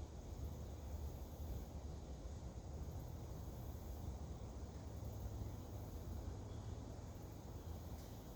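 Outdoor ambience: a very high-pitched insect chorus that swells and fades about every two seconds over a steady low rumble.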